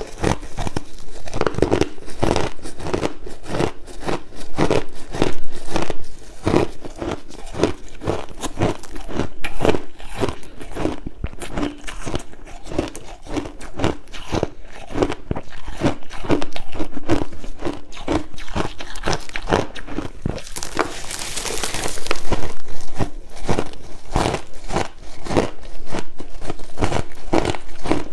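Crushed ice being bitten and chewed close to the microphone: a dense, uneven run of crunches and crackles, with a louder, brighter crunching stretch about three-quarters of the way through.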